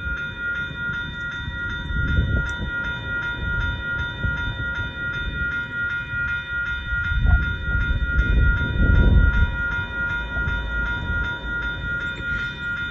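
GO commuter train passing close by, a low rumble of locomotive and wheels on the rails that swells about two seconds in and is loudest about two-thirds of the way through. Over it runs a steady high ringing with a quick, regular beat.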